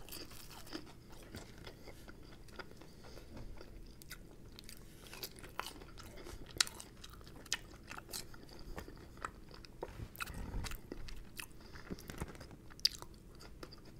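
Close-miked chewing of a crisp, seasoned fried potato wedge: soft mouth sounds broken by many small, sharp crunches and clicks.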